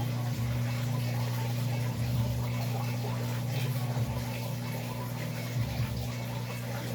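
Electrolux LAC13 washing machine washing a load of towels: its motor hums steadily, water sloshes in the drum, and the sound swells about every two seconds as it agitates.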